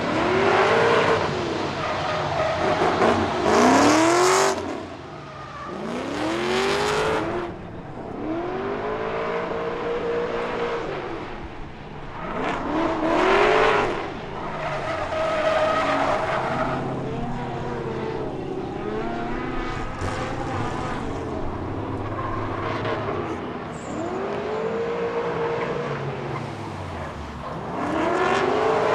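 Hyundai Genesis Coupe with a swapped LS2 V8 drifting: the engine revs climb and fall again and again, with tyres squealing through the slides.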